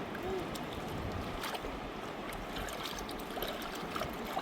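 Fast river water rushing steadily, with a few light clicks.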